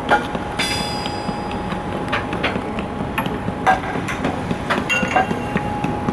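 Railway noise: a steady hum with irregular metallic clanks and knocks, typical of train wagons moving on the tracks, and a brief high ringing squeal about half a second in.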